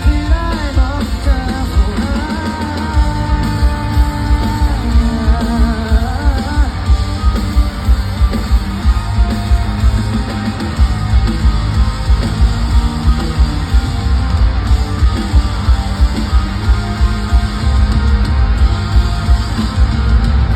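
Live rock band playing an instrumental passage of a pop-rock song, with a steady drum beat of about two hits a second and a wavering lead melody over the full band near the start.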